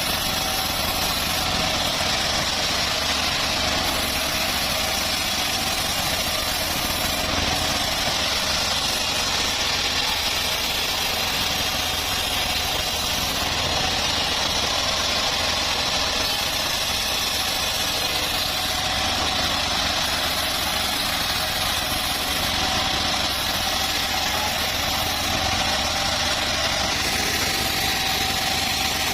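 Homemade bandsaw sawmill running steadily, its engine drone mixed with a continuous high hiss that does not change.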